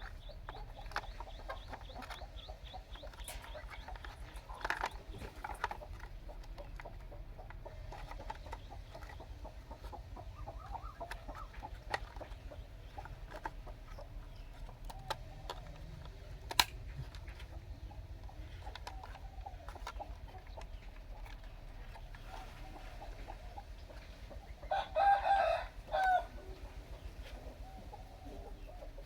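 Animal calls over scattered faint clicks and ticks. The loudest is a pitched call near the end, lasting about a second and a half in two parts.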